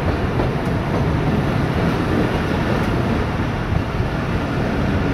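Steady running noise of a moving passenger train heard from on board, with the wheels rumbling on the rails.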